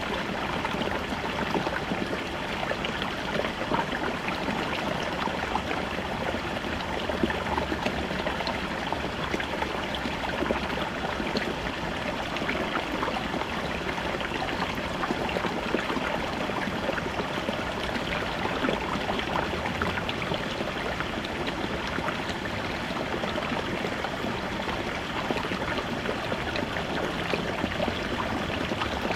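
Small brook babbling over rocks: a steady rush of water flowing and splashing, dense with fine bubbling and gurgling.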